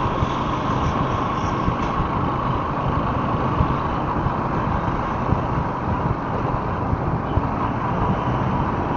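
Motorcycle running steadily while riding in city traffic, its engine mixed with road and wind noise.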